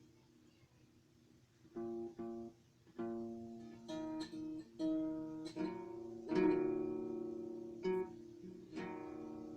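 Acoustic guitar music: plucked and strummed chords, each ringing out and fading, beginning about two seconds in after a quiet start.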